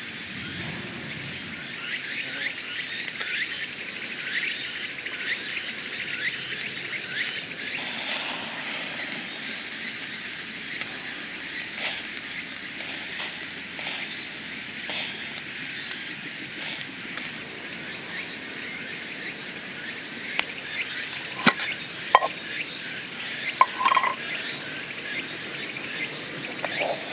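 Insects chirping steadily in summer woodland, with a few sharp clicks and knocks near the end.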